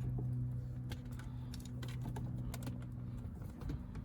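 Scattered light clicks and taps of hands handling wiring and small plastic parts, over a steady low hum.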